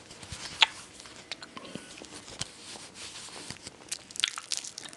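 Close-up noises of eating candy: scattered small clicks and crackles, with one sharper click under a second in and a quick flurry near the end.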